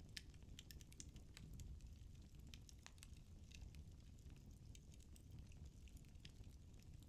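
Firewood burning in a fireplace, crackling faintly: irregular sharp little snaps and pops over a soft, low rumble of the flames.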